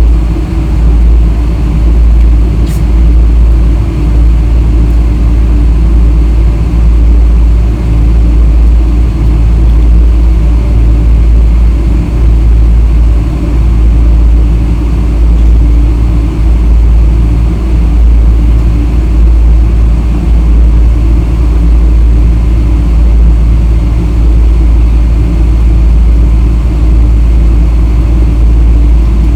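Boeing 777-300 airliner taxiing: a steady, loud low rumble of engines and rolling gear that stays level throughout, with one brief click about three seconds in.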